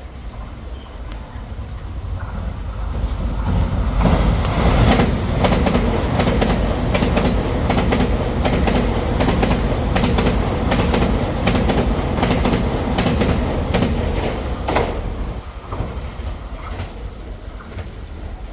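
Taiwan Railway train passing at speed: the rumble builds, then a loud rush with a quick run of wheel clacks over the rail joints for about ten seconds, before fading.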